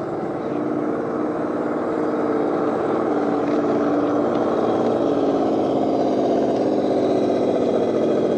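Electric motor and gear drivetrain of an RC scale crawler truck whining steadily, growing gradually louder over the first few seconds.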